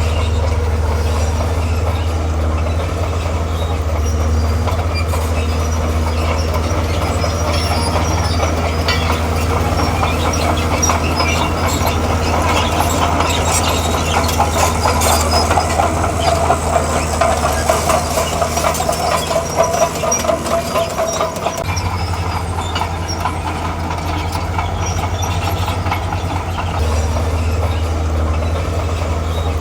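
Komatsu D41P crawler bulldozer working. Its diesel engine drones steadily under the steel tracks, which clank and rattle throughout, with a squeal in the middle as the machine pushes material.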